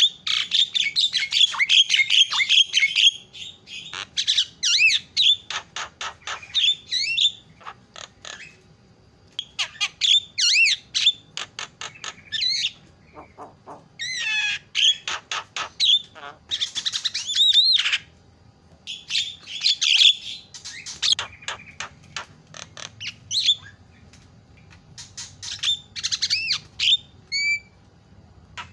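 Javan myna (jalak kebo) singing: phrases of harsh chattering, rapid clicking rattles and squeaky sweeping whistles, each a second or a few long, with short pauses between them.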